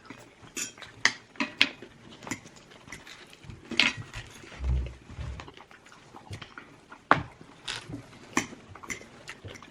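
Table noises of a fried-chicken meal: scattered clicks and clatter of cutlery and takeout containers, with mouth and chewing sounds. There are a couple of low thuds about halfway through.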